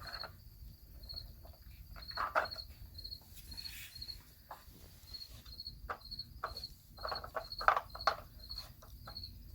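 Dog nosing and pawing at a plastic treat-puzzle toy: scattered light clicks and knocks, busiest and loudest near the end. Under it a faint high chirp repeats about twice a second.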